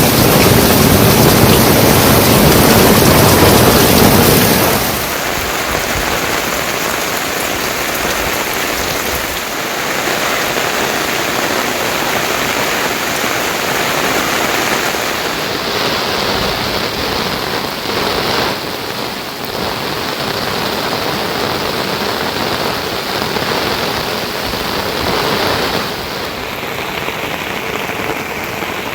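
Steady rain falling, heavier and louder for the first few seconds. It drops suddenly to a lighter patter and shifts in character twice more.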